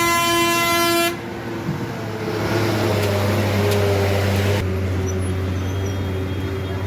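Loud horn blast, one held tone that cuts off about a second in, followed by the low steady hum of a running engine.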